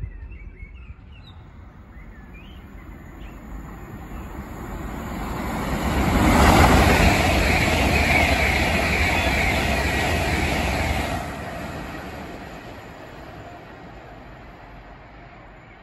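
Express passenger train passing through the station at speed: a rushing rumble that builds over a few seconds, stays loud for about five seconds as the coaches go by, then drops off sharply and fades as it recedes. Birds chirp faintly in the first few seconds.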